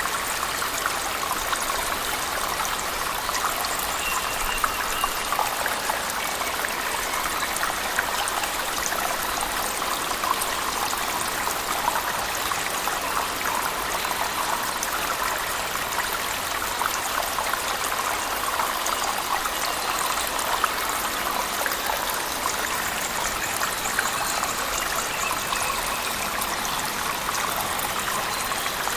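Steady rush of falling water from a cave waterfall mixed with heavy rain, with a dense patter of small drips and splashes. It keeps an even level throughout.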